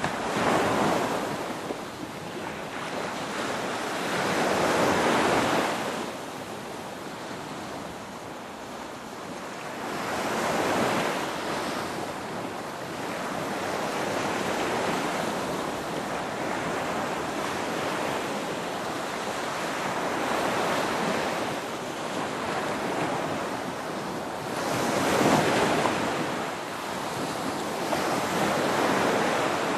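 Ocean waves breaking and washing on the shore, a steady rush of surf that swells into louder surges every five or six seconds.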